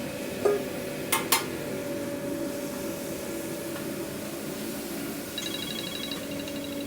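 Steady background hum of kitchen equipment with a knock and then two sharp clacks, like utensils or containers being handled, about a second in. About two-thirds of the way through, a phone starts ringing with a rapidly pulsing ringtone: an incoming call.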